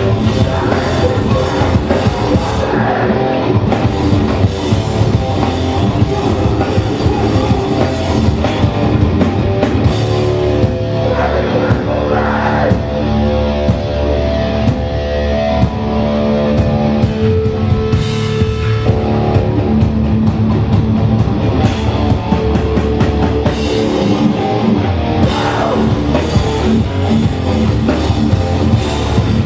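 Live hardcore punk band playing loud and steady: distorted guitars, bass and a pounding drum kit, with shouted vocals coming in now and then.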